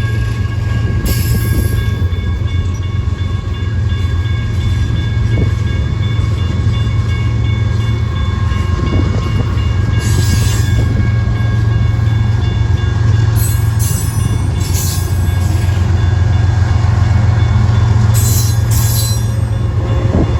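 A long freight train's cars rolling past on the rails with a steady heavy rumble, broken a few times by brief high metallic screeches from the wheels.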